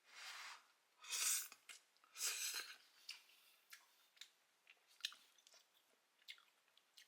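Close-miked eating: three short, noisy mouthfuls about a second apart, then quieter chewing with scattered wet clicks and smacks.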